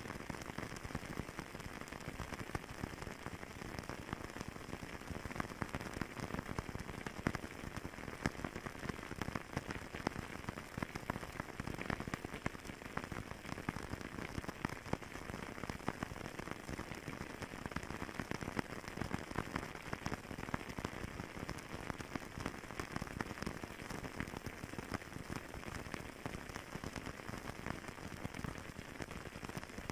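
Wood fire crackling in a fireplace: a dense, steady run of small pops and snaps.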